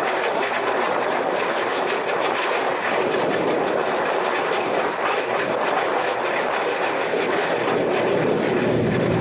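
Case IH 2388 combine running as it cuts wheat, heard from the cab roof: a steady, even mechanical running noise with a fine, rapid rattle.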